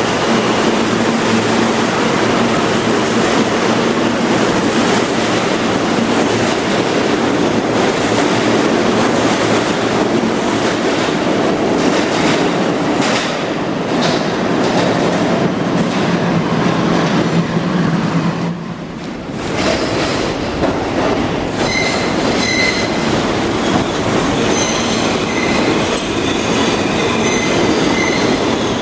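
New York City subway train moving through an underground station: loud steel wheel and rail noise with clattering over rail joints. After a brief lull about two-thirds in, high-pitched wheel squeal sets in and runs on.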